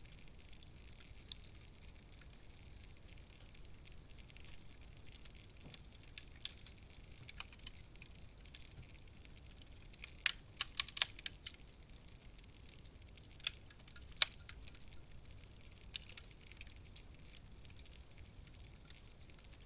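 Wood fire crackling in a fireplace: scattered sharp pops and snaps over a soft hiss, with a quick run of pops about halfway through and a single louder pop a few seconds later.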